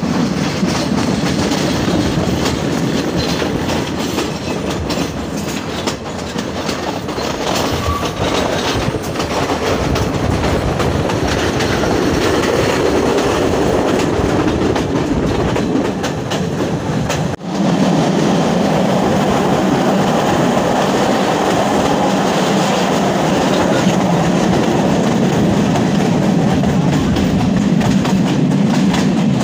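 Passenger train running along the line, heard from aboard: a steady rumble of the carriages with wheels clacking over the rail joints. The sound breaks off for an instant a little past halfway, then carries on.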